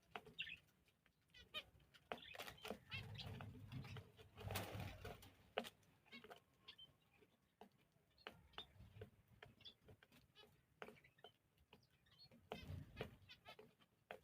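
Faint chirping of small cage birds, mixed with scattered clicks and rustles.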